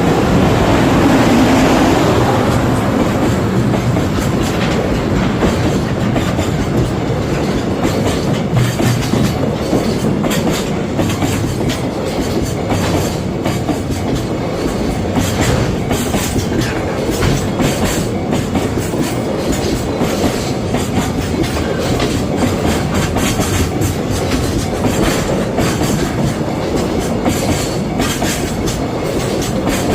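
Container freight train passing close by, hauled by a JR Freight EF210 "Momotaro" electric locomotive. It is loudest in the first couple of seconds, then the wagons roll steadily past with a continuous rumble and a long run of wheel clicks over the rail joints.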